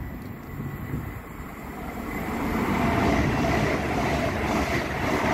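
LNER Class 801 Azuma electric train running through the station at speed. The rushing rumble of wheels on rail swells over the first couple of seconds and stays loud as the coaches pass close by.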